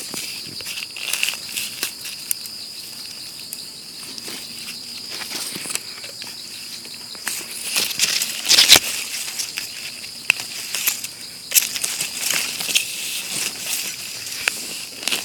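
Steady insect chorus in the background, with irregular crackling rustles and clicks of leaf litter being handled, the loudest about eight to nine seconds in.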